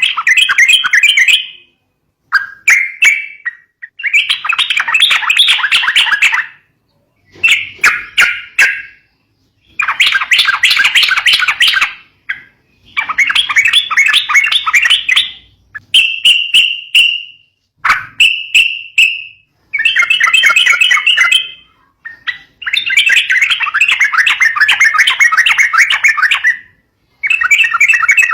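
Yellow-vented bulbul (trucukan) singing: a run of bubbly, chattering phrases about two seconds each, separated by short pauses, with a couple of shorter clear notes in the middle.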